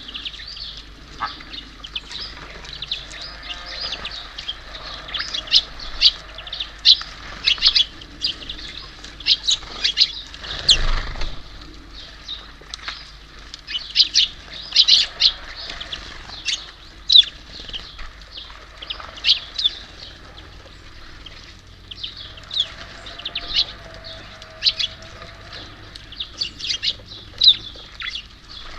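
Small birds at a feeder chirping, with many short high calls coming thick and fast, and a brief whoosh, likely wingbeats, about ten seconds in.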